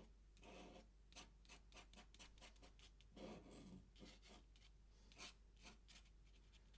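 Faint, quick scratching of an ink pen on paper: a run of short strokes, like hatching feathers, with a longer, softer stroke about three seconds in.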